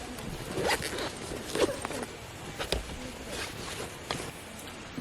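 Camping gear being handled: scattered rustles and light knocks, about five over a few seconds, with faint low voices.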